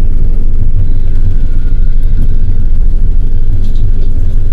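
Passenger train running: a loud, steady rumble of the wheels and carriage on the rails.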